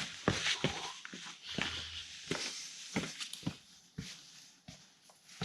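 Footsteps and scuffs on rock and grit as someone climbs down, a dozen or so irregular steps that grow fainter as the walker moves away.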